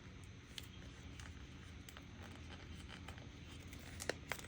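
Quiet room with a faint low hum and scattered small clicks and taps from paper and a sticker being handled and picked at on a craft table, with two sharper ticks near the end.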